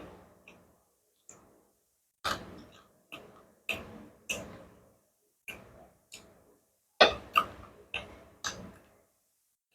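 Close-miked eating of spicy curry noodles: about a dozen sharp, wet clicks and smacks at irregular intervals, the loudest about seven seconds in.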